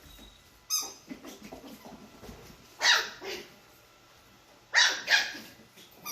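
Chihuahua puppies playing and barking: a handful of short, sharp, high-pitched barks, spaced a second or two apart.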